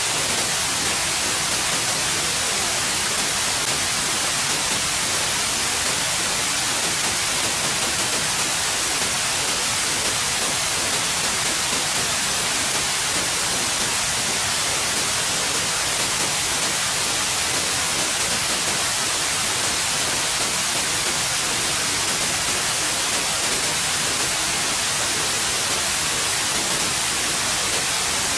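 Steady white noise: an even, continuous hiss with no change, brightest in the high end.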